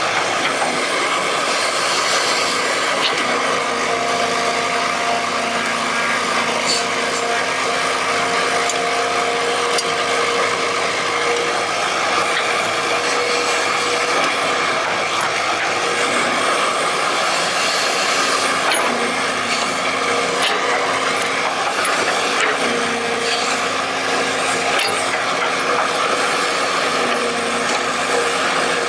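Excavator working: its drive and hydraulics run steadily, with a whine that shifts in pitch now and then as the machine moves.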